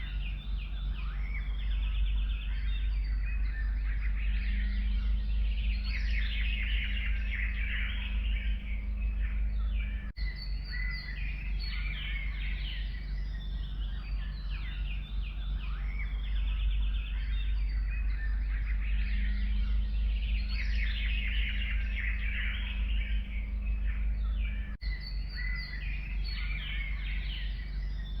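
Chorus of forest songbirds chirping and trilling over a steady low rumble of background noise. The recording loops: there is a short dip about ten seconds in and again near the end, where the same stretch of birdsong starts over.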